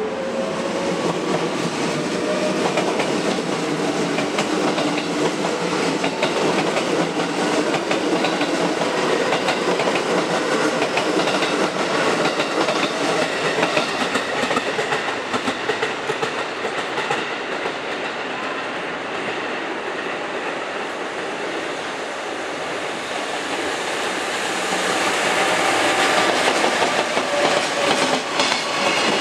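JR Freight EF66 electric locomotive running past at the head of a long container freight train, with a steady hum at first. It is followed by the clatter of the container wagons' wheels over the rail joints, which grows louder near the end as the wagons pass close.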